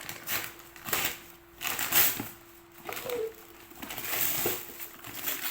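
Packaging being handled, rustling and crinkling in irregular bursts, over a faint steady hum.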